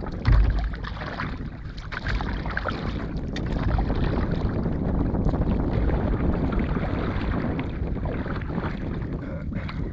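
Wind rumbling on the microphone over water sounds from a small inflatable boat under way on a lake. There is a loud low thump just after the start.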